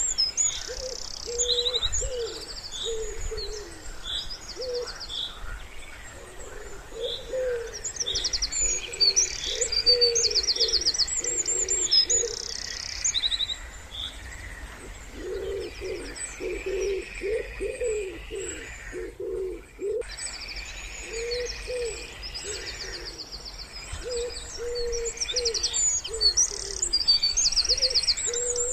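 Wood pigeon cooing in repeated low phrases, with small songbirds chirping and trilling high above it.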